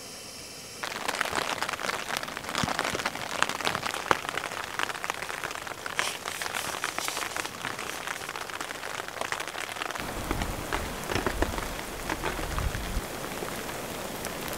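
Rain falling on a tent, a dense patter of drops. A quieter steady hiss gives way to it about a second in, and a low rumble joins it for a few seconds near the end.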